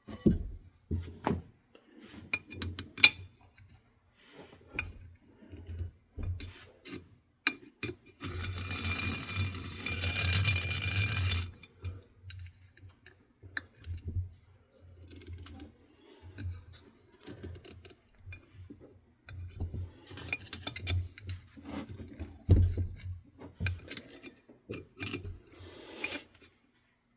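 Metal ceiling fan parts being handled and worked apart by hand: scattered clinks and knocks, a few seconds of continuous scraping about eight seconds in, and more scraping and clatter near the end.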